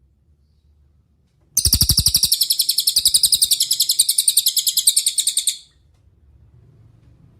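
A cililin songbird sings one rapid, even trill of high chirping notes, about a dozen a second, starting about a second and a half in and lasting about four seconds.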